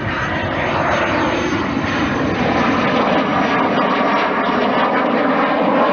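Jet trainer aircraft flying past: a steady rushing engine sound with a thin high whine that rises slightly and then eases off.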